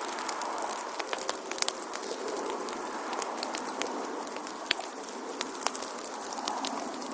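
Wood fire crackling in a fireplace: frequent sharp pops and snaps, several a second, over a steady hiss of burning.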